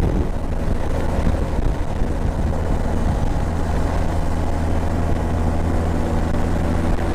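Motorcycle engine running at a steady cruising speed, a constant low hum, mixed with wind rush on the rider's microphone.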